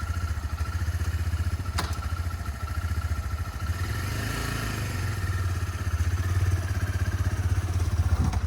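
Used motorcycle engine running with a low, steady pulsing exhaust beat, getting a little louder in the last few seconds. A single sharp click about two seconds in.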